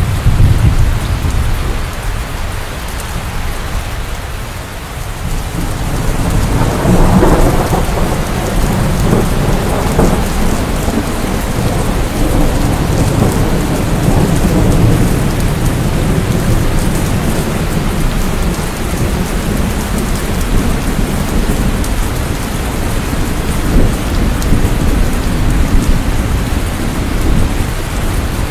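Steady rain with rolling thunder: a low rumble swells about six seconds in and rumbles on under the rain for the rest of the time.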